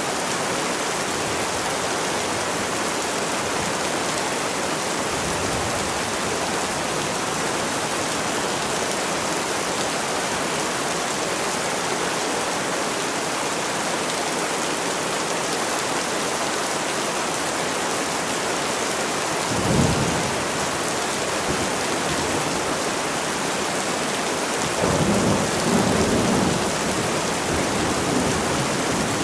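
Steady heavy rain falling in an even hiss, with two low rumbles of thunder: a short one about two-thirds of the way in and a longer one near the end.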